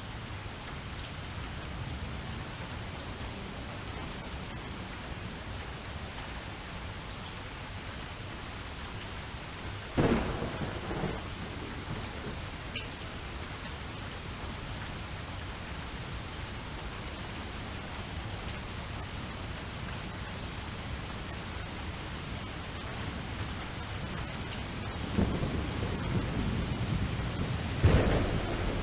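Thunderstorm: steady rain falling, with a sudden thunderclap about ten seconds in and rolling thunder building near the end.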